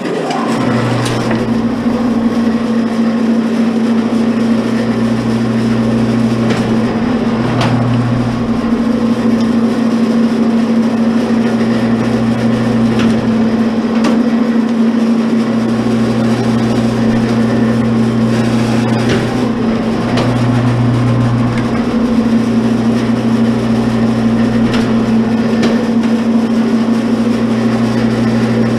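Commercial electric wire stripper switching on and running with a steady hum, stripping insulated copper wire, with scattered sharp knocks.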